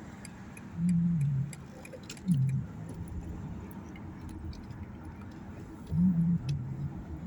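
Car cabin road and engine noise, a steady low rumble, with a person humming low "mm" sounds three times, each stepping down in pitch. Faint ticking runs underneath.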